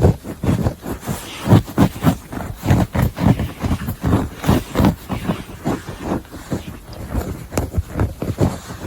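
Fingernails scratching fabric or carpet close to the microphone, in quick rhythmic strokes about two to three a second.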